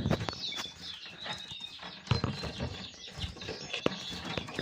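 Caged finches and canaries chirping with many short high calls, mixed with wing flutters and light taps as the birds hop and flit about the cage.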